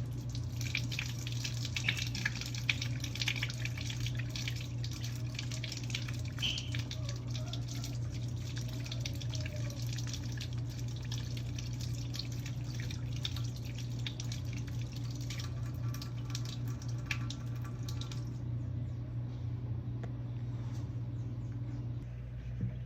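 Water tap running into a sink with splashing and dripping, stopping about three quarters of the way through; a steady low hum continues underneath.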